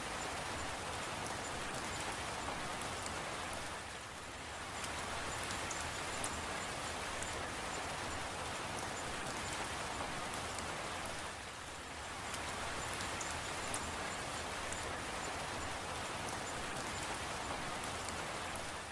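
Steady rain falling, with scattered drop ticks and a brief dip in level twice.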